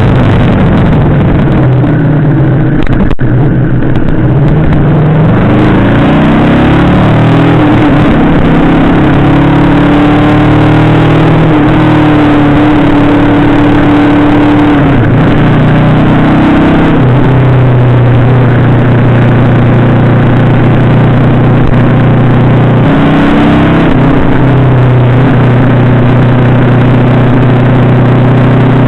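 Yamaha VMAX 1700's V4 engine pulling the bike along. Its pitch climbs, holds and drops several times as the rider accelerates and shifts, under a steady rush of wind noise on the bike-mounted camera's microphone.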